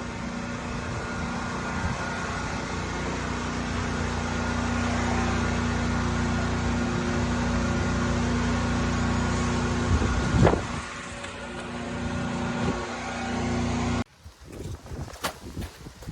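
Pressure washer running steadily while cleaning block paving: engine hum and water spray noise, with a brief louder surge about ten seconds in. It cuts off abruptly near the end, leaving only scattered light clicks.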